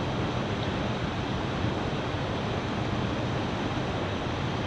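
Steady rushing of a mountain stream with waterfalls.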